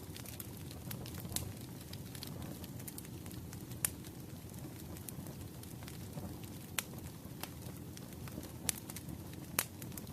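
Burning firewood: a steady low rush of flames with scattered sharp crackles and pops, the loudest pops about four seconds in and near the end.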